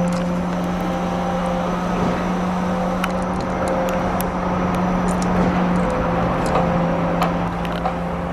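Concrete mixer truck running steadily: a constant engine hum with scattered light clicks and rattles.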